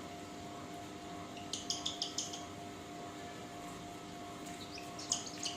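Lutino cockatiel chick's begging calls during syringe hand-feeding: a quick run of about five short, high chirps, then a few more near the end. The calls are the sign of a chick that is still hungry.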